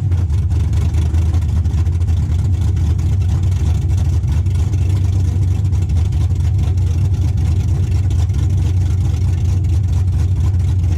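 Freshly swapped LQ4 6.0-litre LS V8 in a Chevrolet Caprice idling steadily and loudly just after being started, on one of its first runs since the swap.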